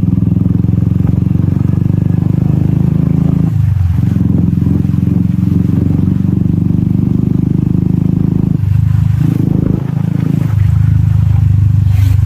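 Royal Enfield Classic 350's single-cylinder engine running through a loud exhaust on the move. The note dips briefly about three and a half seconds in, and again for a couple of seconds around the nine-second mark, before picking back up.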